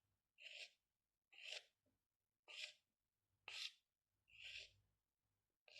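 Faint strokes of a drawing tool scratching across paper, about one stroke a second, each a short hiss lasting a few tenths of a second.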